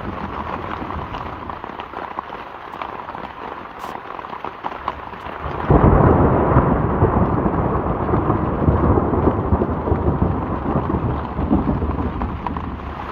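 Heavy rain coming down loud, which gets suddenly heavier about six seconds in and stays that way.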